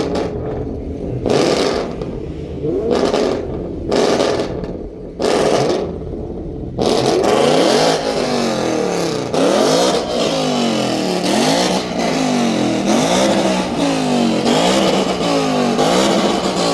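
Car engines revving: a series of short separate revs for the first several seconds, then a continuous run of revs rising and falling in pitch about once a second.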